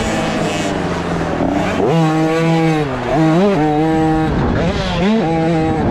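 Small KTM 50 SX two-stroke motocross bike revving hard and easing off between jumps and turns, heard from on board: the engine note climbs about two seconds in, holds, drops, climbs again, dips near the end and rises once more, over wind and track noise.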